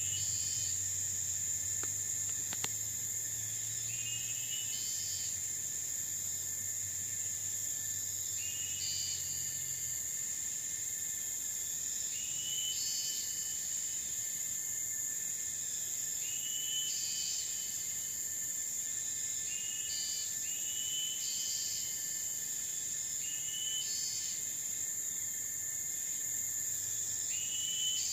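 Tropical forest ambience: a steady high-pitched insect drone, with a short animal call repeating every two to four seconds. A low hum fades out about ten seconds in.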